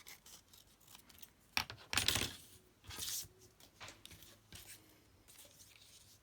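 Paper being handled: scattered rustles and light taps of paper pieces and book pages, with a few louder rustles about one and a half, two and three seconds in.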